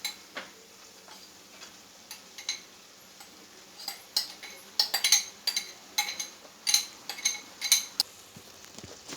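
A spoon clinking and knocking against cookware in a run of sharp strokes, denser and louder in the second half at about two a second. Under it is a faint steady sizzle of chicken and vegetables cooking in the pan.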